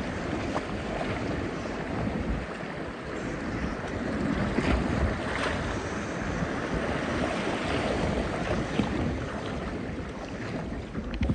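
Rushing whitewater of a river rapid around a kayak running through it, with wind buffeting the microphone.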